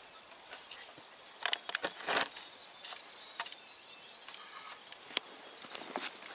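Small birds calling with short high chirps and whistles, over a faint outdoor hiss, with a few sharp clicks and rustles close by.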